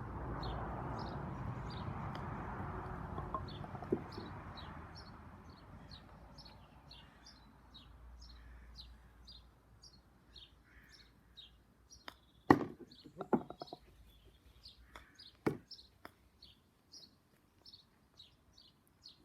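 Small birds chirping throughout. About twelve seconds in, a sharp crack of a 3-iron striking a golf ball, then within a second a short clatter of knocks as the ball drops into a wash basin, and one more knock about three seconds later.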